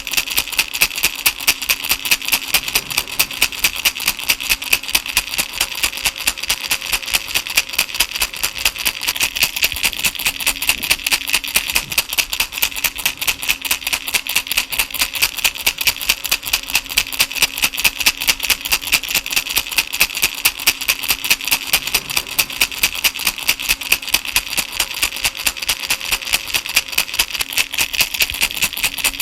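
Baby rattle shaken over and over in an even rhythm, about three shakes a second, the beads giving a bright, steady rattling.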